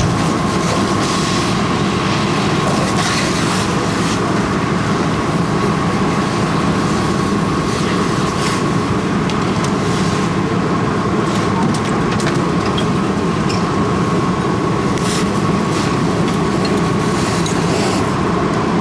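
Fire engine's diesel engine running steadily at the scene of a vehicle fire, a constant rumble with a thin steady whine above it and no change in speed.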